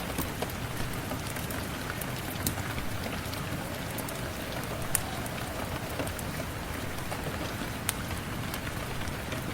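Steady rain falling, with a few sharp pops scattered through it.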